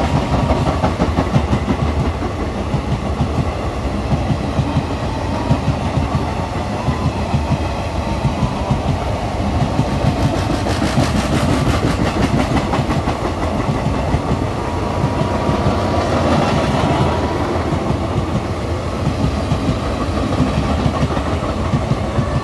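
Passenger train coaches rolling past at speed, their wheels clattering over the rail joints in a steady run of clicks over a continuous rumble.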